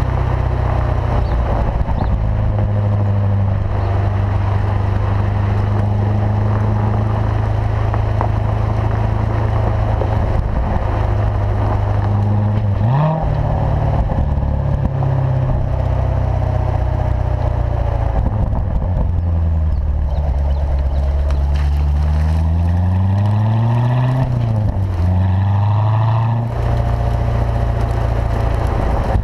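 2014 Corvette Stingray's 6.2-litre LT1 V8 running through its performance exhaust at an easy, steady engine speed, with a brief jump in pitch about midway. Later it pulls for several seconds in a rising pitch under light acceleration, then falls back quickly and settles.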